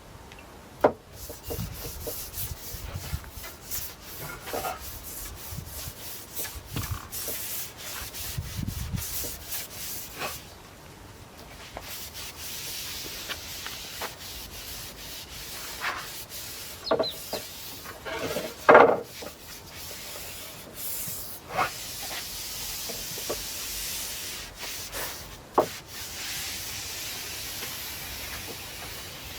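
A paintbrush swishing oil onto European larch planks, its bristles rubbing over the wood grain in repeated strokes, with a few short knocks in between, the sharpest a little past halfway.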